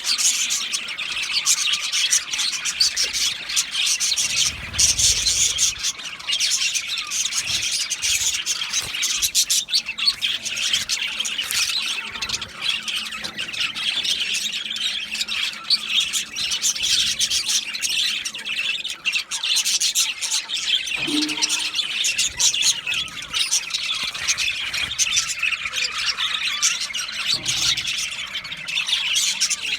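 A flock of budgerigars chattering: dense, overlapping chirps, whistles and squawks that never stop.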